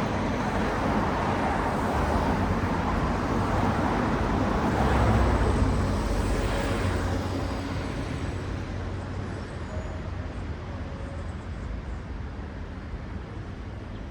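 Road traffic passing on a city street: a steady rush of tyre and engine noise with a low rumble, swelling about five seconds in and then fading away as the vehicles move off.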